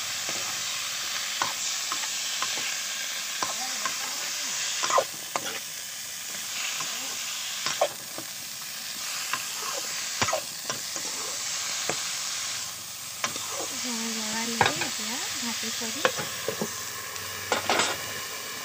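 Pumpkin leaves, dry fish and vegetables sizzling in hot oil in an aluminium wok while a spatula stirs them, with irregular scrapes and knocks against the pan.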